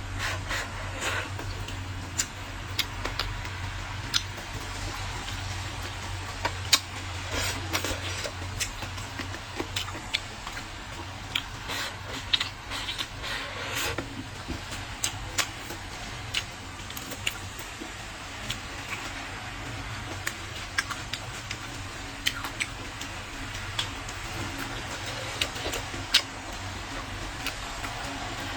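Close-miked eating: wet chewing and mouth sounds with many short, sharp clicks and snaps scattered throughout. A low hum runs beneath for roughly the first third.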